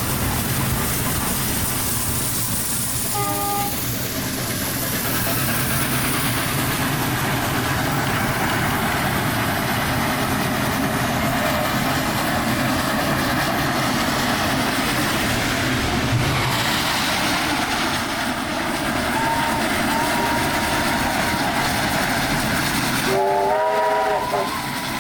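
Steam-hauled train running at speed, heard from on board as a steady rumble and rail clatter. A brief whistle sounds about three seconds in, and a longer chord-like whistle blast comes near the end.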